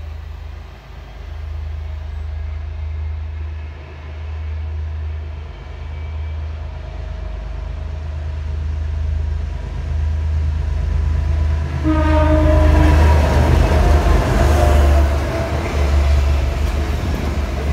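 Passenger train hauled by two locomotives (2472 and 2494) approaching with a steady low rumble. It sounds a short horn blast about twelve seconds in. Then comes its loudest stretch as the locomotives and carriages run past at speed.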